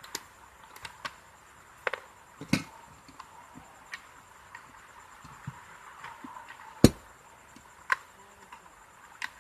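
Irregular clicks and knocks of electric iron parts being handled and fitted together during repair, with one louder knock about seven seconds in.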